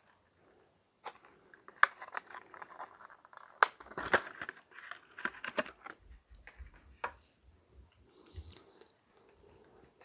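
Clicks, scrapes and rustling as a die-cast model car is handled, with sharp clicks about two and three and a half seconds in and a busy stretch of scratching in the middle.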